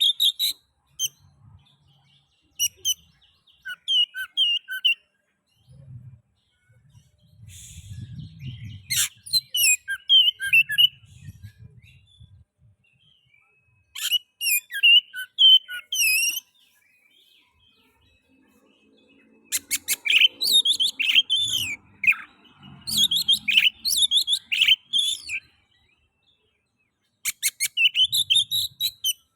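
Oriental magpie-robin (kacer) singing in repeated bursts of quick, varied whistled phrases, with short pauses between the bursts.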